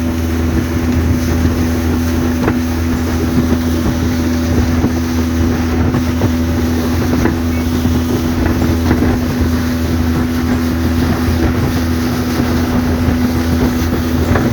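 A motorboat's engine running steadily at cruising speed, with a constant low hum, while wind buffets the microphone.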